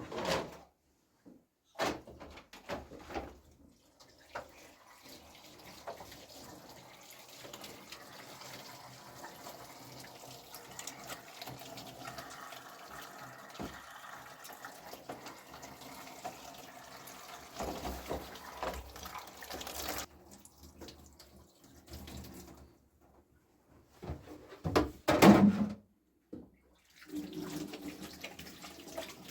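Water running and splashing, as at a sink or basin in use, stopping for a few seconds after about 20 seconds and starting again near the end. Sharp knocks sound near the start and a louder one about 25 seconds in.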